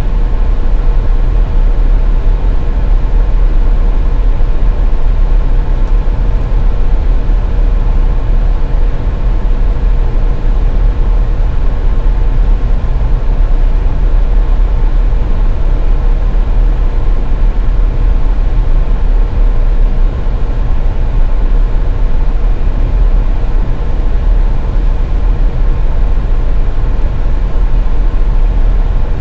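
Car in motion on the highway, heard from inside: a steady low rumble of road and engine noise with a faint steady hum over it.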